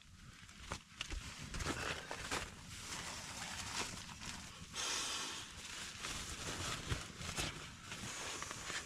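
Kindling being split by hand: a series of irregular wooden knocks and cracks over rustling, with a brief hissing rustle about five seconds in.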